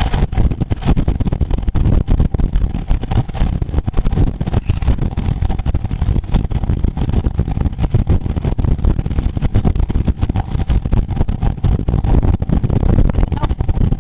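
Heavy wind buffeting on the microphone of a camera riding along on a road bike at race speed: a loud, uneven low rumble, with a faint steady tone underneath.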